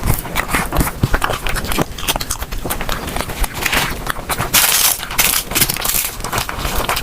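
Close-miked chewing and crunching of food, with a dense run of wet mouth clicks and crackles; the loudest, crispest crunch comes about four and a half seconds in.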